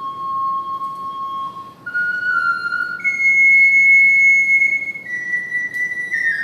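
Triple ocarina playing a slow melody of long held notes, nearly pure in tone. It steps up from a low note to a higher one held for about two seconds, then settles a little lower, with two notes sounding together near the end.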